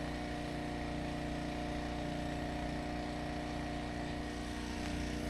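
Pressure washer engine running at a steady speed, an even mechanical hum that does not change.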